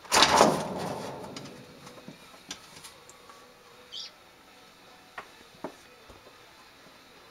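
A loud rushing noise at the start fades over about a second and a half. A few faint clicks follow, then a bird gives one short high chirp about four seconds in.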